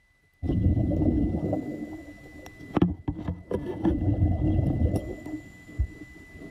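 Muffled, low gurgling and sloshing of water close to the microphone, starting suddenly about half a second in, with scattered clicks and knocks, and swelling and easing.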